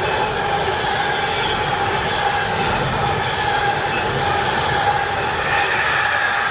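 A train passing close by, with a steady high-pitched squeal of wheels on rail held over the rolling noise.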